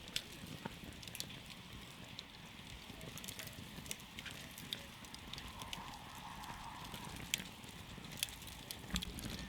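Campfire burning, with irregular sharp crackles and pops from the burning wood over a soft steady hiss.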